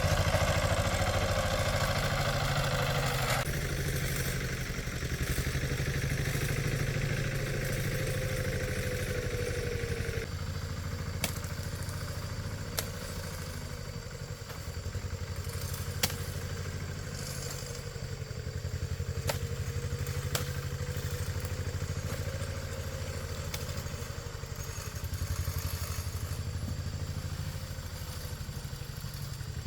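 A small engine running steadily, with a few sharp clicks and clanks over it in the second half.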